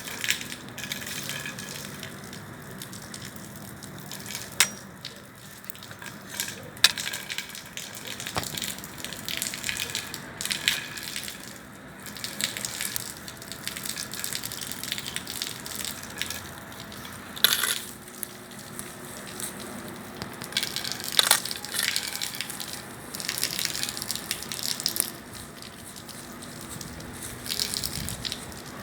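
Bonfire burning, its wood crackling steadily with sharp pops every few seconds.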